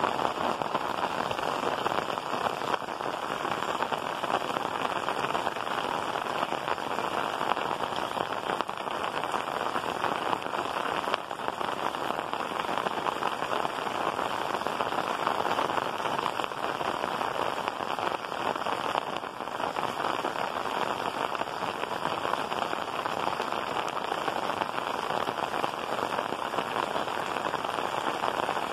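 Steady rain falling on clay roof tiles, an even hiss that neither eases nor breaks.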